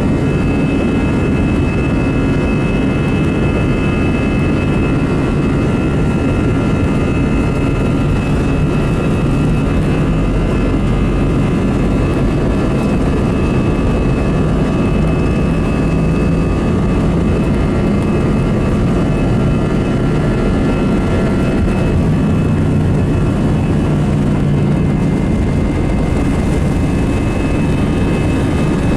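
Airbus A319-115's CFM56 jet engines running at takeoff power, heard inside the cabin as a steady loud rumble with a few thin whining tones over it.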